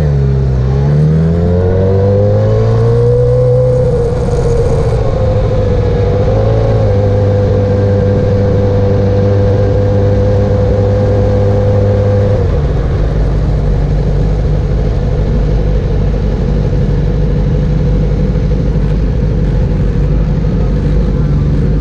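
Motorcycle engine running at speed on a race track. Its pitch dips and climbs in the first few seconds as it is revved through the gears, then holds steady. About halfway through it drops to a lower steady note.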